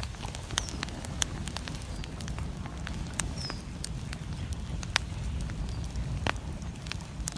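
Wood fire crackling in a fireplace, with irregular sharp pops and snaps, over a steady low rumble of storm wind.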